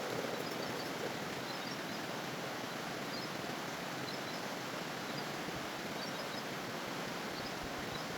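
Steady outdoor background hiss, like rain or wind, with a few faint, short high chirps scattered through it.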